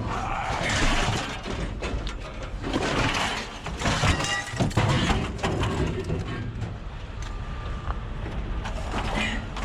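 Metal scrap being worked loose by hand: irregular clattering, knocking and scraping, with a couple of brief squeaks.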